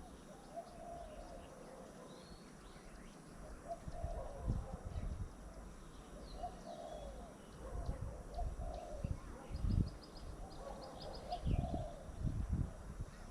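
Doves cooing repeatedly, with small birds chirping and trilling higher up. A few low thuds come and go, the loudest near the end.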